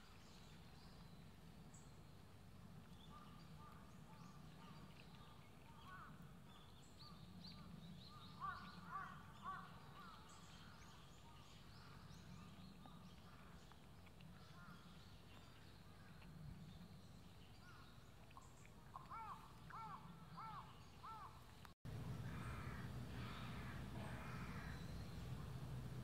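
Faint outdoor ambience with birds calling in the background: two bouts of short repeated calls, a few a second, about a third of the way in and again near the end. After a sudden cut near the end the background grows louder.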